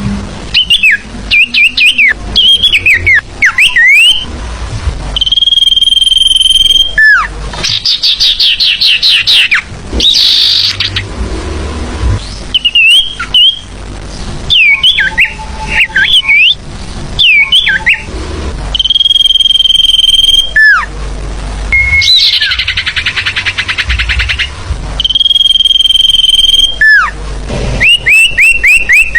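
Bird-lure (pikat) recording of forest bird calls: long steady high whistles alternating with runs of quick falling chirps and a couple of rapid buzzy trills, in a sequence that repeats about every fourteen seconds.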